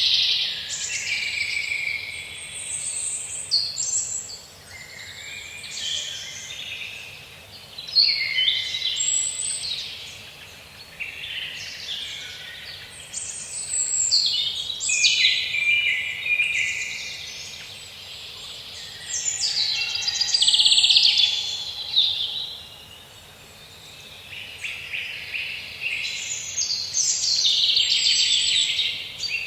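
Several birds singing and calling in a forest after rain, overlapping chirping phrases coming in clusters every few seconds over a faint steady hiss.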